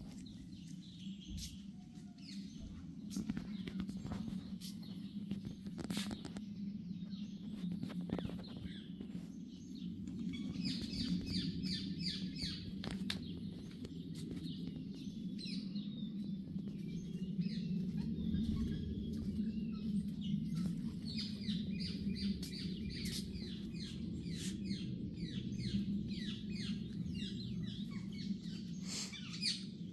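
Small birds chirping, with rapid runs of repeated notes coming in bursts, over a steady low hum.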